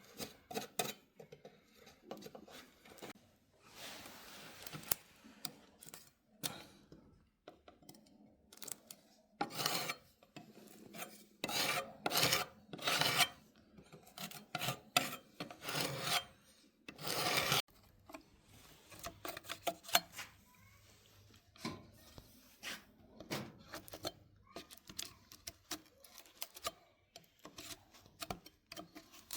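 Hand-worked abrasive strokes rasping and rubbing across wood, irregular in pace, with a louder run of longer strokes through the middle.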